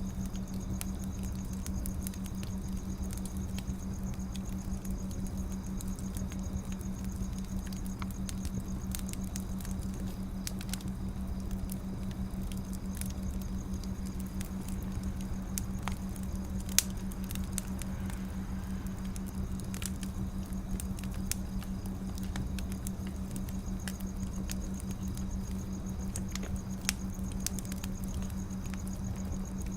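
Wood fire burning, with a constant scatter of small crackles and pops and one sharper pop about 17 seconds in, over a steady low hum.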